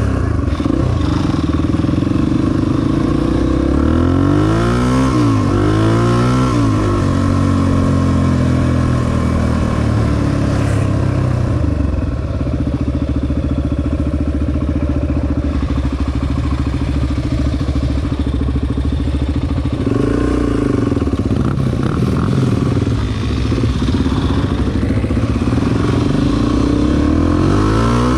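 Honda XR250 dirt bike's single-cylinder four-stroke engine running under riding load. The revs rise and fall a few times, with long steady stretches in between.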